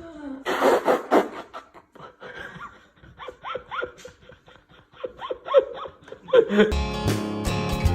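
Rapid laughter: a burst early on, then a quick run of short falling "ha" sounds, about four a second. Near the end it gives way to strummed acoustic guitar music.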